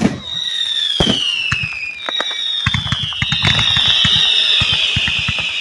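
Aerial fireworks bursting directly overhead: sharp bangs at the start and about a second in, then several overlapping whistles falling in pitch over rapid crackling.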